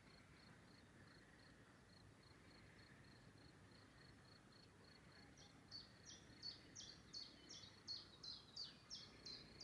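Faint meadow ambience of insects: a steady high chirp repeating about three times a second, joined from about five seconds in by a louder run of about a dozen quick rasping strokes at a similar pace.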